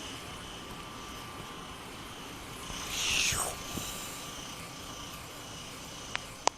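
Steady outdoor background noise with a brief, louder whoosh about three seconds in that falls in pitch, and a few sharp clicks near the end.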